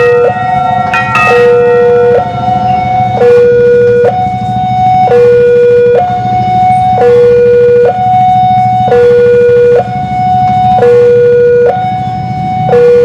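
Railway level crossing warning alarm sounding a steady two-tone hi-lo pattern, each tone held about a second, which signals that a train is approaching. The alarm runs over a low traffic rumble, with a few ringing bell-like strikes in the first second or so.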